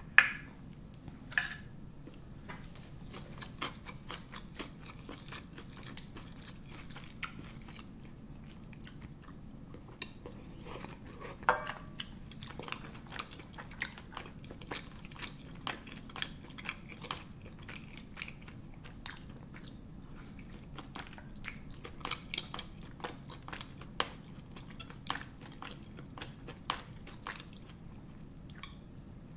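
Close-miked chewing of spicy rice cakes (tteokbokki): many small wet mouth clicks and bites throughout, with a few louder clicks, the loudest right at the start and about eleven seconds in.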